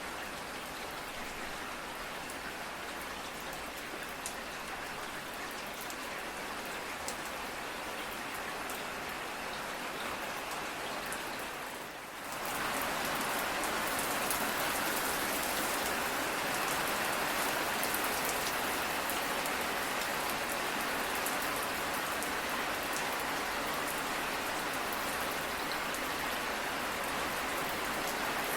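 Steady rain falling, with scattered drops ticking on a surface. About twelve seconds in there is a brief dip, then the rain comes back louder and heavier.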